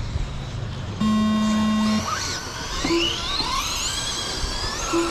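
A race start tone sounds for about one second, then the electric motors of radio-controlled 2wd stadium trucks whine, several rising in pitch together as the trucks accelerate off the start.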